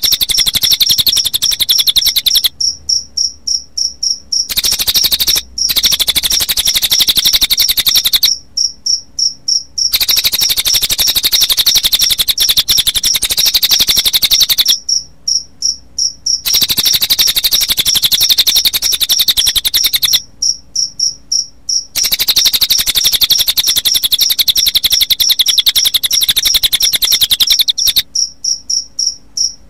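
Cililin bird song mixed with chirping crickets: long, very fast, high trills alternating every few seconds with shorter stretches of separate, evenly spaced chirps, about three a second.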